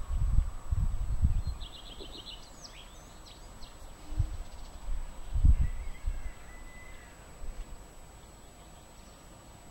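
Garden birdsong: a short rapid trill and a few quick high whistled notes in the first few seconds, then a thin drawn-out whistle about midway. Low rumbling bumps, loudest at the start and twice more around the middle, lie underneath.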